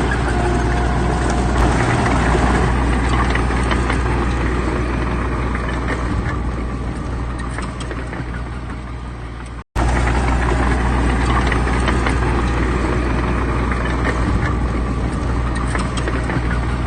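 Heavy diesel engine of earthmoving machinery running steadily. The sound cuts out for an instant about ten seconds in, then resumes.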